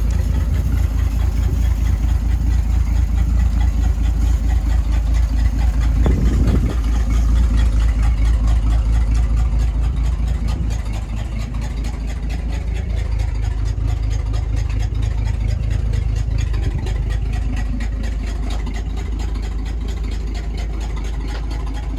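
A 1950 Dodge Meadowbrook's 230 cu in flathead straight-six runs steadily, with a brief swell about six seconds in. About eleven seconds in it drops to a quieter idle.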